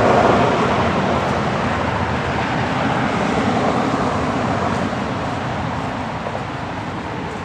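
Road traffic noise: the steady rush of a passing vehicle, loudest at the start and slowly fading.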